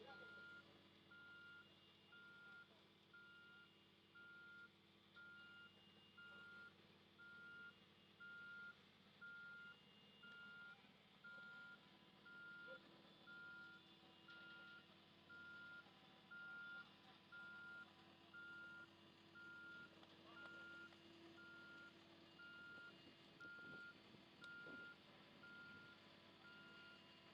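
Faint reversing alarm on road-paving machinery, a steady single-tone beep repeating about three times every four seconds, with a fainter higher-pitched beeper at a slower pace and a low engine hum beneath.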